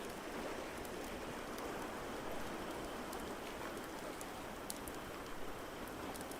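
Wood fire crackling, with sparse sharp pops over a steady hiss.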